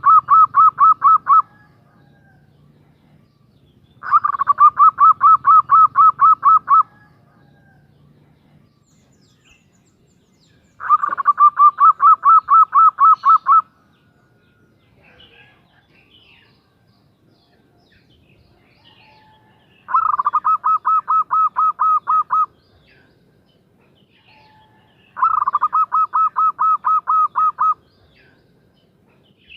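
Female zebra dove (perkutut) calling to a male: runs of rapid, evenly repeated coos, each run about two and a half seconds long, with pauses of a few seconds between. One run ends about a second in and four more follow.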